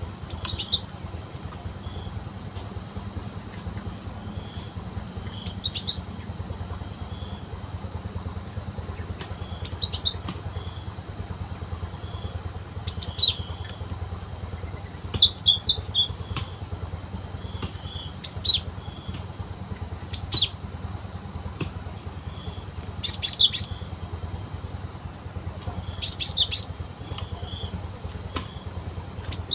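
Cinereous tit (gelatik batu) calling in the wild: short phrases of two or three high sweeping notes, repeated every few seconds, about ten times. Underneath runs a continuous high-pitched buzzing and a low hum.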